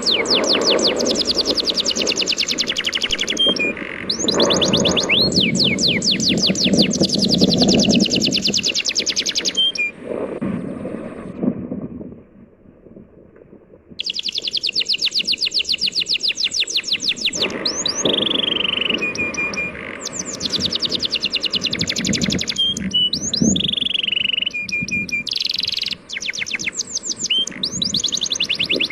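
Birds chirping in dense, rapid trills of quick falling notes, over a steady low rush of sea waves. Both drop away briefly about twelve seconds in, then come back abruptly.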